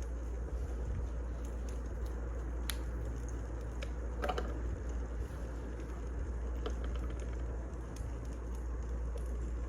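Wood fire crackling: irregular sharp pops and snaps over a steady low rumble, with a short burst of crackle about four seconds in.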